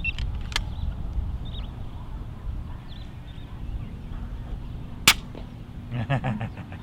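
Wind buffeting the microphone with a steady low rumble, then a single sharp crack about five seconds in from a suppressed .22 PCP air rifle firing. A faint click comes shortly after the start.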